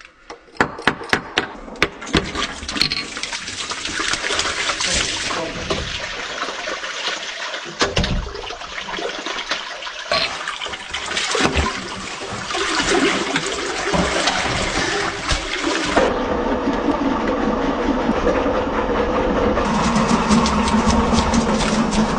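Water from a toilet flushed upstairs rushing down the just-cleared drain line, with a run of clicks and knocks in the first few seconds. About sixteen seconds in, the rush gives way to a steady motor hum.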